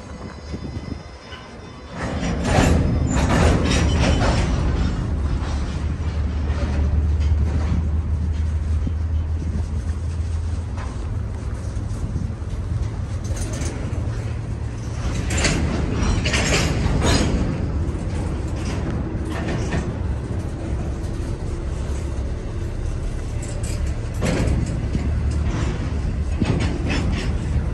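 Intermodal freight train cars rolling past with a steady low rumble, banging and clanking in loud clusters a couple of seconds in, again about midway, and near the end.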